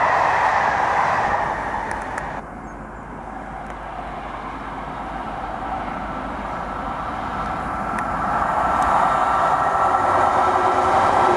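Passenger coaches rolling past on the rails, cut off abruptly about two seconds in. Then an approaching Class 90 electric locomotive, its rail and running noise building steadily as it nears, with a steady high tone joining in over the last few seconds.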